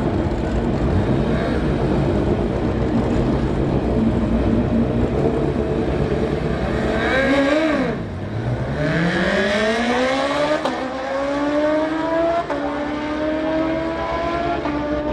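Sport motorcycle engine running loud and rough, then the revs fall sharply about halfway through. It then accelerates hard, the engine pitch climbing and dropping back at two upshifts.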